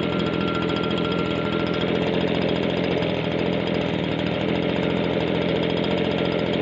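Small two-stroke engine of a Stihl BG56 leaf blower running steadily at an even speed.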